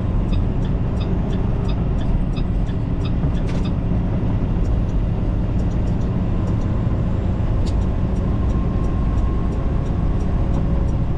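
Semi-truck diesel engine and road noise heard from inside the cab while driving slowly: a steady low drone, with faint regular ticking over it.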